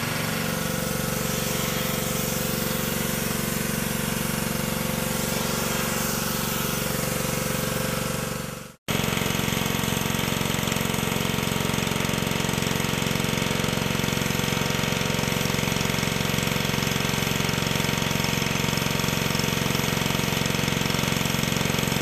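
Gas-engine pressure washer running steadily at a constant speed. The sound cuts off abruptly about nine seconds in and comes straight back.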